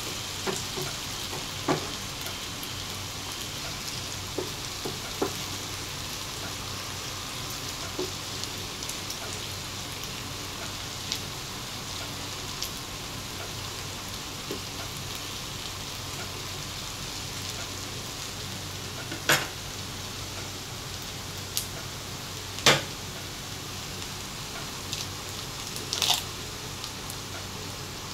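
Diced potatoes, ham and onion sizzling steadily in oil in a frying pan, stirred with a wooden spatula, with scattered light taps and scrapes. A few sharper knocks come in the second half.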